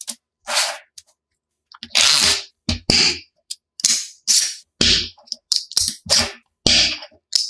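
An irregular series of short, sharp clacks and rattles, about a dozen, in quick succession with short pauses between them.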